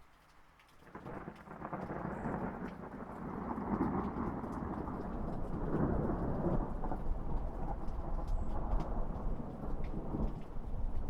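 Rolling thunder over steady rain. The rumble builds about a second in and goes on long and low, with rain pattering throughout.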